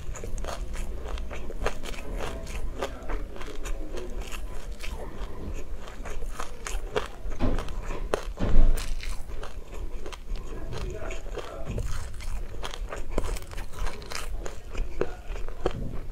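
Close-up chewing of a mouthful of sesame seeds: dense, rapid crunching and crackling of the small seeds between the teeth, with one louder crunch a little past halfway.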